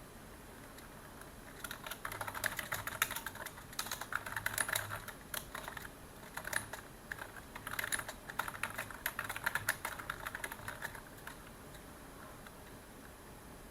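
Computer keyboard typing in quick runs of keystrokes. It starts about two seconds in, pauses briefly midway, and stops a few seconds before the end.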